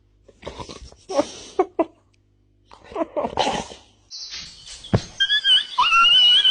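Animal vocal sounds: a few short noisy bursts in the first half, then a thump about five seconds in, followed by a high, wavering cry.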